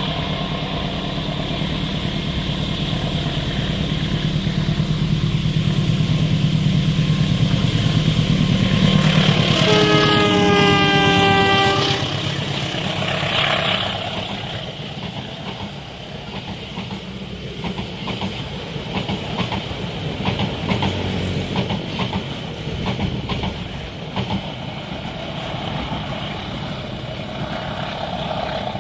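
A train approaches with its locomotive engine growing louder. About ten seconds in, the locomotive sounds its horn for about two seconds as it passes, and the horn's pitch drops. A long string of carriages then rattles past, the wheels clattering over the rail joints.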